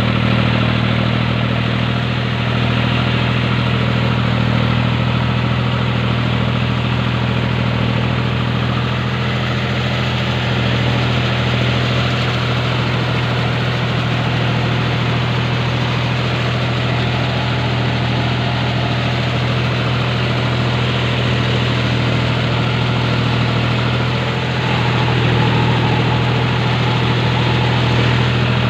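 John Deere 5045 4WD tractor's diesel engine running steadily under load while driving a Sonalika rotavator, the engine note swelling slightly about 25 seconds in.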